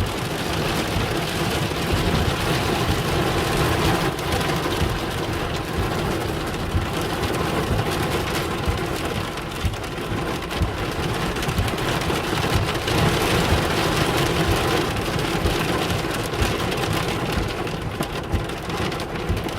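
Heavy rain drumming hard and steadily on the roof and windows of a van, heard from inside the van.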